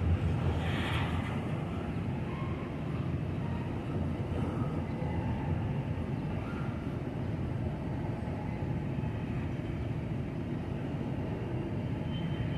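Freight train cars rolling past, a steady rumble of steel wheels on the rails, with a few faint short high squeals here and there.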